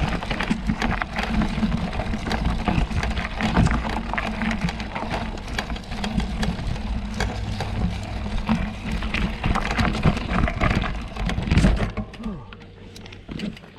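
Mountain bike riding over a rough dirt trail: tyres crunching and rattling over rocks and gravel, with many sharp clicks and a low rumble. It quiets down about twelve seconds in.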